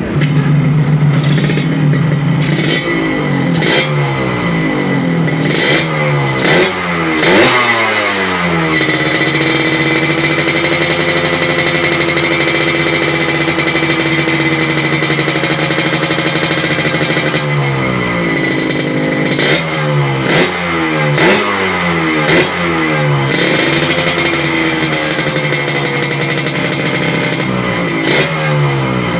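Yamaha RX-King two-stroke single revving through an SMR underbelly (kolong) exhaust with a saringan insert: repeated quick throttle blips rising and falling, then held at high revs for about nine seconds before more blips.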